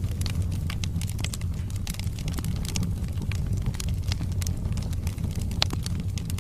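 Wood fire burning in a fireplace: a steady low rumble of the flames with frequent sharp crackles and pops from the burning logs, one louder pop near the end.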